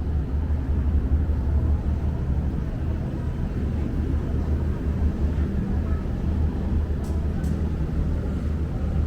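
Steady low rumble of vehicle noise, with two faint ticks about seven seconds in.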